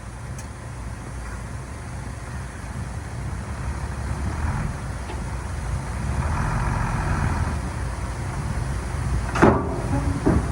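Heavy diesel earthmoving machinery running and working, its engine rumble growing louder about halfway through. A sharp knock near the end, followed by a second, fainter one.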